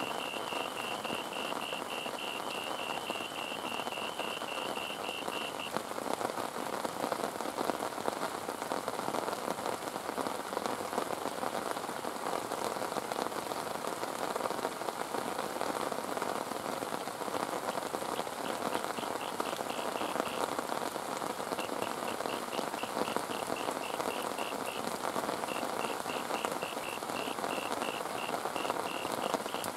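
Heavy rain falling steadily. A high, rapid pulsing trill sounds at the start, stops about six seconds in, and comes back in several bursts over the last third.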